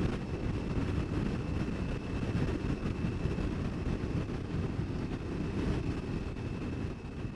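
Aprilia Tuareg 660 motorcycle being ridden at road speed: a dense, gusting low rumble of wind buffeting and engine, with a thin steady high whine above it. The sound fades out near the end.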